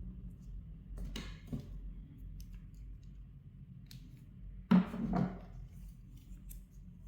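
Light clicks and taps of small tools and phone parts being handled on a repair bench, with one sharper clack just before five seconds in.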